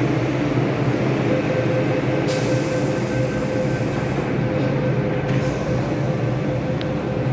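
MTR M-Train metro running on the track: a steady rumble with a steady whine that comes in about a second in, and a short burst of hiss a little after two seconds.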